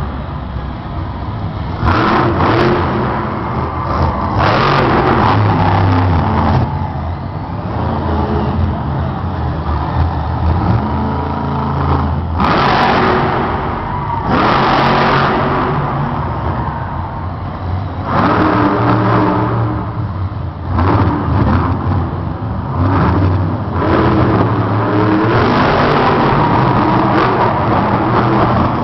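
Monster truck engine running hard, throttle repeatedly blipped and held, the noise surging up and dropping back several times.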